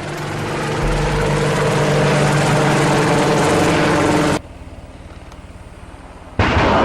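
Apache helicopter running loud, its rotor and turbine noise building over the first second and then holding steady. About four seconds in it cuts abruptly to a quieter, rapidly pulsing rotor sound, then jumps back loud near the end.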